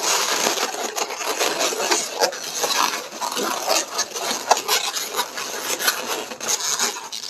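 Inflated latex modelling balloons rubbing and squeaking against each other as they are twisted and pushed into place, a continuous scrubbing with many short squeaks.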